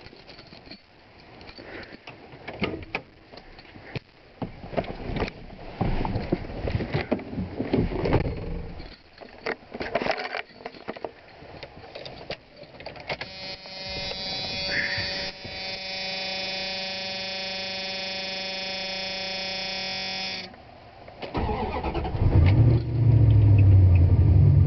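Dodge Ram 1500 V8 pickup cold-started at about 50 degrees: after a run of knocks and clicks and a steady tone of several seconds, the starter cranks briefly about three quarters of the way in. The engine catches within a second or two and runs at a loud, steady idle.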